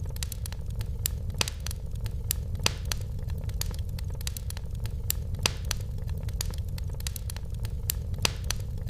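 Fire crackling in a fireplace: irregular sharp pops and snaps, a few louder than the rest, over a steady low rumble of the burning.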